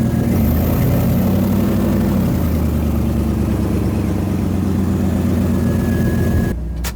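1997 Jeep Grand Cherokee ZJ's 5.2L V8, freshly rebuilt with new head gaskets, running steadily. Its pitch rises briefly about a second in, and it stops with a sharp click near the end. The owner is sure it has an exhaust leak.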